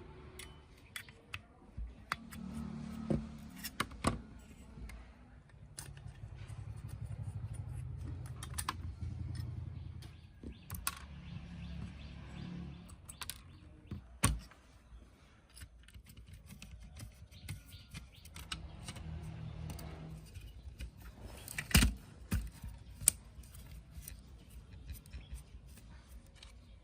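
Small hard parts being handled on a work surface: a run of clicks, taps and light metallic clinks, with a sharp knock about 14 seconds in and a louder one near 22 seconds. Between the clicks come several stretches of a low hum lasting a few seconds each.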